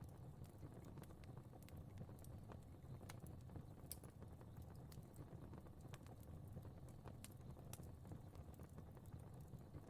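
Faint crackling fire: irregular sharp pops and snaps over a low, steady rumble of flames.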